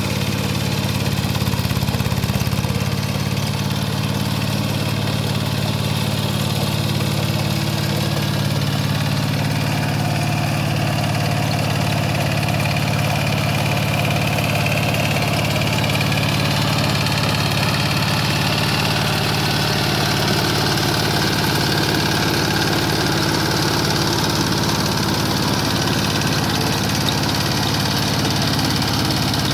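Kubota K700 power tiller's single-cylinder diesel engine running steadily at idle.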